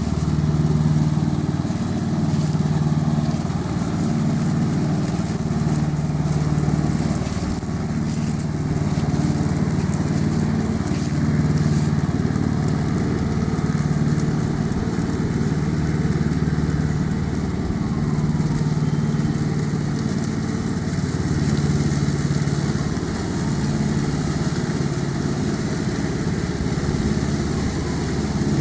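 Tractor engine running steadily under way, its note swelling and easing every couple of seconds.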